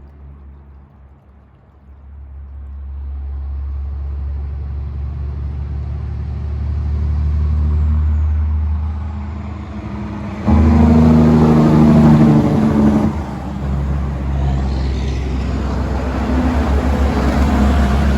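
Heavy coal truck's diesel engine growing louder as it approaches. It jumps suddenly louder about ten seconds in for a couple of seconds, then keeps running loud.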